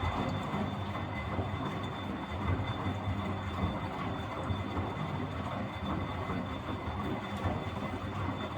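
Miele W761 washing machine running a wash stroke, its motor turning the drum with a steady low hum and churning noise.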